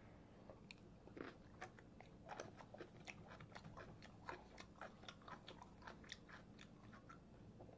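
Faint chewing of a mouthful of food: soft, irregular wet mouth clicks.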